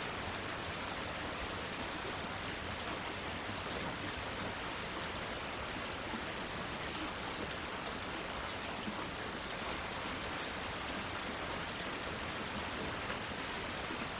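Steady rain falling, an even hiss with fine patter of drops on leaves and surfaces.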